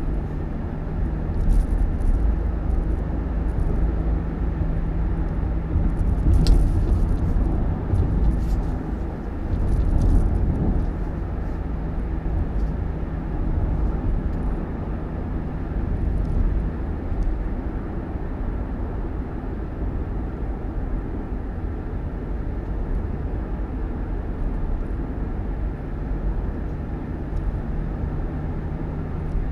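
A road vehicle running steadily: a low engine hum and road rumble, with a few faint clicks and knocks in the first ten seconds or so.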